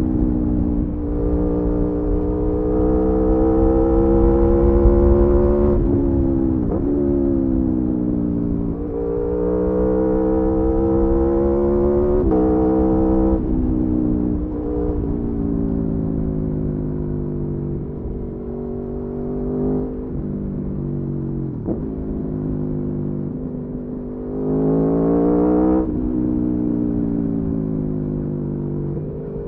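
Aprilia Tuono V4's V4 engine under way, its pitch climbing steadily under throttle for several seconds at a time and dropping sharply about six and thirteen seconds in, then rising once more briefly near the end. A steady low rumble of wind noise runs underneath.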